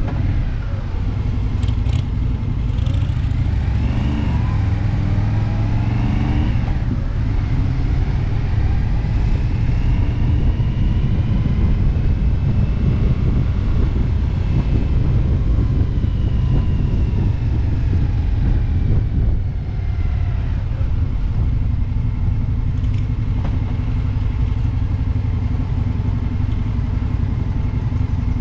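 Motorcycle engine running at road speed, its pitch rising and falling several times in the first few seconds as it accelerates and shifts, then holding a steadier cruise, under a heavy low rumble of wind on the microphone.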